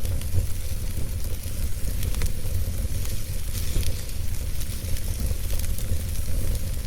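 Wood fire burning, with scattered crackles and pops over a steady low rumble.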